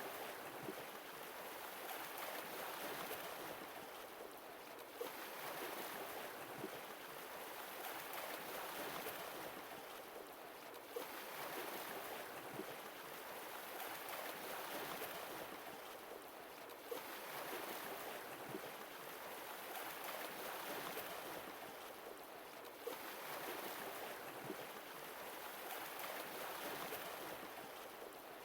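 Sea waves washing in and drawing back, the surf swelling and fading about every six seconds, with a small click at each repeat.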